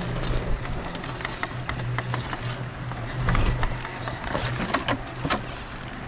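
RC crawler truck driving over the trail, its electric motor and gears giving a steady low hum, with irregular clicks and crunches from the tyres and chassis on rocks and debris.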